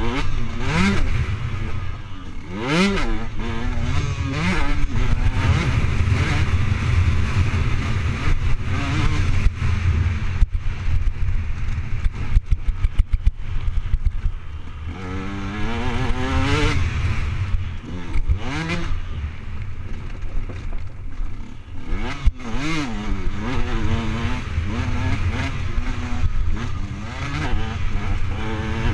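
Motocross dirt bike engine revving up and down repeatedly as it is ridden, picked up by a camera mounted on the bike or rider. About a third of the way through comes a run of sharp knocks and rattles.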